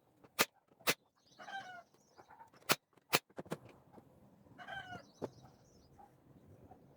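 A chicken calling twice, each a short call of about half a second with a slight downward slide. Several sharp knocks, louder than the calls, come at uneven intervals in between.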